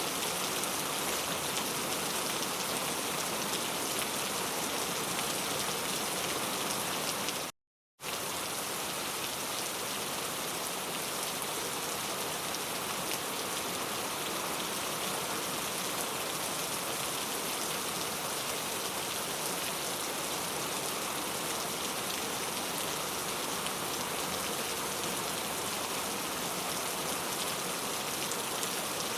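Heavy rain falling steadily, an even dense hiss of drops. It cuts out to silence for about half a second, a quarter of the way in.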